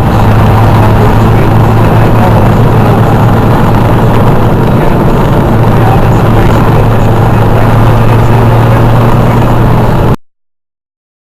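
Motorcycle engines running, a loud steady low rumble that cuts off suddenly about ten seconds in.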